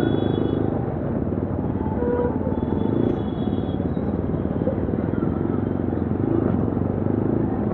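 2025 Yezdi Adventure's single-cylinder engine and exhaust running at a fairly steady pace while the motorcycle is ridden.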